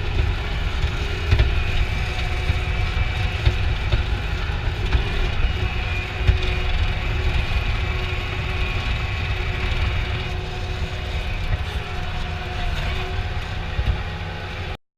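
A vehicle engine running steadily, a heavy low rumble with a few steady tones and scattered knocks and rattles over it. The sound cuts off abruptly near the end.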